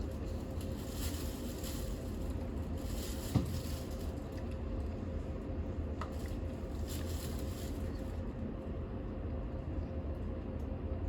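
Interior running noise of a Keio 5000 series train on the Keio Liner: a steady low rumble with a faint constant hum. There is a single knock about three seconds in, and the upper hiss eases toward the end.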